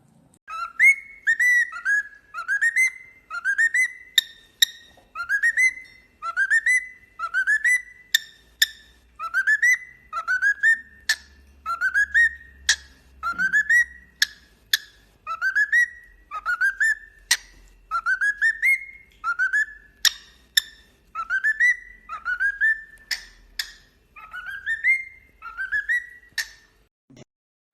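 A bird whistling the same short rising call over and over, about one call every second or so, with sharp clicks between some of the calls.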